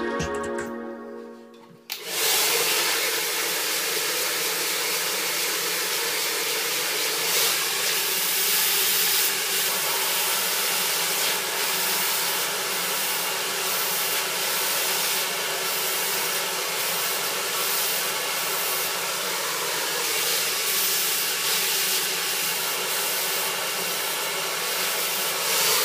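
Handheld hair dryer blowing steadily, coming in about two seconds in: a constant rush of air with a steady low hum under it, used for a brush blow-dry.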